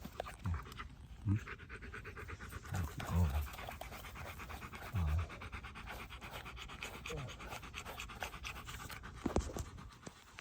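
A dog panting fast and steadily, with a few short low thuds in the first half.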